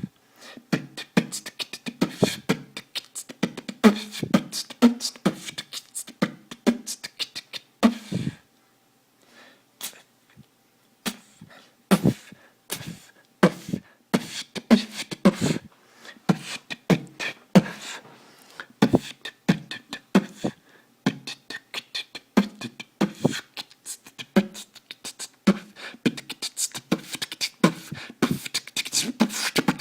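Solo beatboxing: fast mouth-made drum sounds, sharp clicks and kick-like thumps in quick succession, picked up by an older smartphone's microphone. The beat breaks off for about three seconds roughly a third of the way in, then picks up again.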